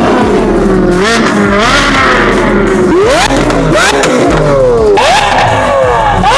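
High-performance car engines accelerating hard, the pitch climbing again and again in a series of rising revs, with one long falling sweep a little past the middle.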